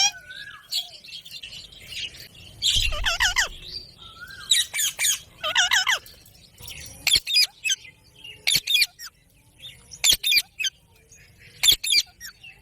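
A green parrot squawking: a few harsh, wavering squawks in the first half, then short sharp calls about a second or more apart, with quiet between them.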